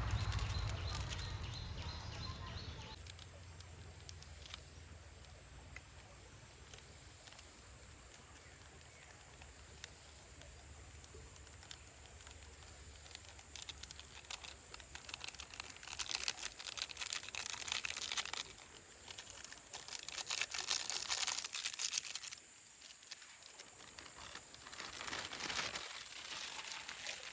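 Several bursts of crinkling and rustling, as of a wrapper or packet being handled, over a steady high-pitched drone.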